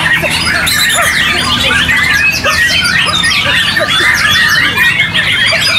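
Several white-rumped shamas (murai batu) singing at once in competition: a dense chorus of overlapping whistles, trills and chirps with no pause.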